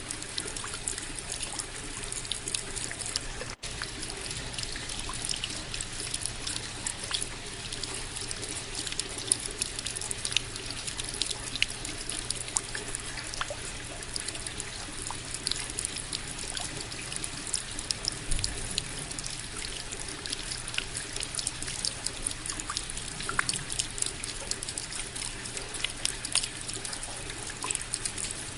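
Steady rain: an even hiss of water with many small drops ticking and water trickling. It cuts out for an instant about three and a half seconds in.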